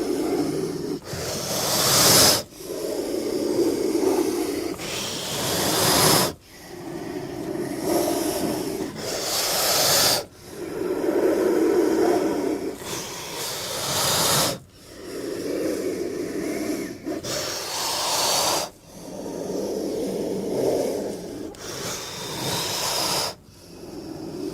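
King cobra hissing, a low growl-like hiss of about two to three seconds followed by a sharper, higher hiss of about a second that cuts off sharply, repeating about every four seconds like slow, heavy breaths.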